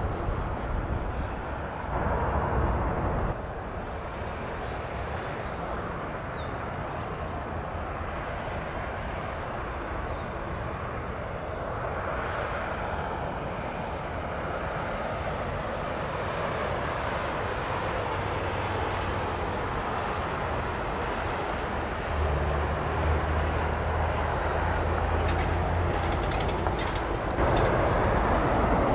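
Airbus A380 jet engines during landing: a steady rushing rumble that grows louder about three-quarters of the way through, with a deeper drone joining in.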